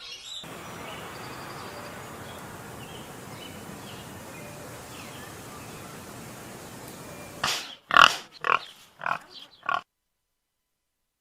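Pig oinking: five or six short, loud calls in quick succession, after several seconds of steady background hiss. The calls stop abruptly.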